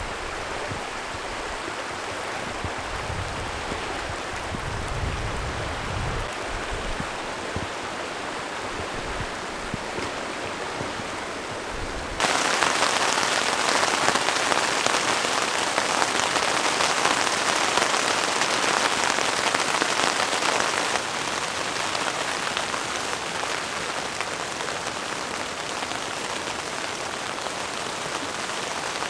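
Rain falling, a steady hiss, with low gusty rumbles in the first part. About twelve seconds in it abruptly turns louder and brighter, then drops back to a steadier, quieter hiss about nine seconds later.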